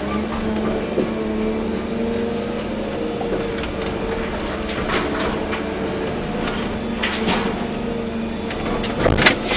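Volvo EC240B excavator's diesel engine running at a steady speed, with a few scattered knocks and clatters from the machine at work, the loudest about nine seconds in.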